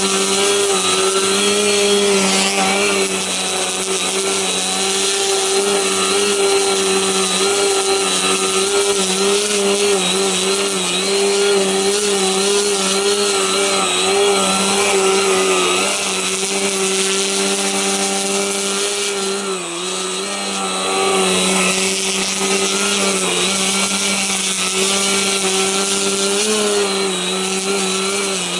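Electric motor and propeller of an Extra 50 ARF radio-controlled aerobatic plane holding a hover, with a steady high whine that wavers with small throttle corrections and dips briefly about two-thirds of the way in.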